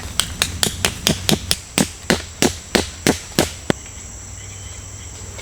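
A run of about fourteen sharp hammering knocks, about four a second and slowing a little, that stops about two thirds of the way through. A steady high buzz of insects runs underneath.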